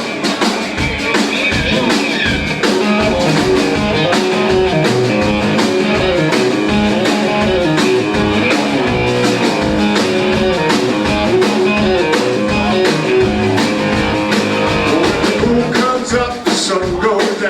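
Live rock and roll band playing an instrumental passage, with a steady drum beat under guitar and bass.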